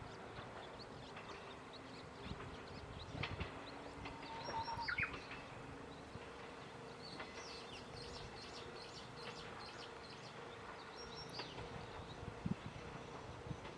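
Birds chirping and calling in short, scattered notes, with a brief gliding whistle about a third of the way in, over a faint steady hum.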